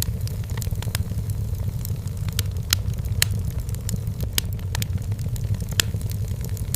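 Wood fire burning in a fireplace, crackling with sharp, irregular pops and snaps, several a second, over a steady low rumble.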